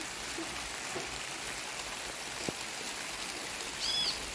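Steady rain falling, with a single sharp click about halfway through and a short, high arched chirp near the end.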